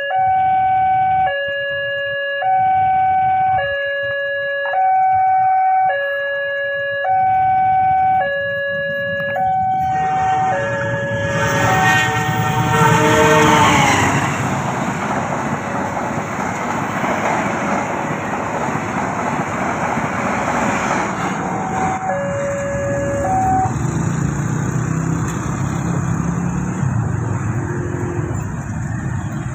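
Railway level-crossing warning alarm sounding, switching between two tones about every 1.2 seconds. Then an express passenger train, led by a diesel locomotive, goes by at speed: a sound that slides down in pitch as the locomotive passes, then a long, steady noise of the carriages on the rails. Near the end, motorcycle engines start up as they move off across the tracks.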